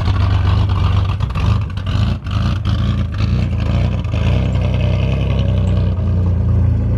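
Chevy pickup engine running, a steady low rumble that stumbles briefly a few times about two seconds in. Its air-cleaner lid is missing its hold-down clip, which makes it pop and backfire now and then.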